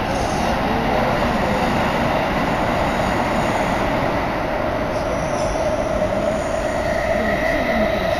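Tsukuba Express commuter train running at speed, heard from inside the carriage in a tunnel: a loud, steady rumble with a whine running through it. A higher squeal from the wheels joins about seven seconds in.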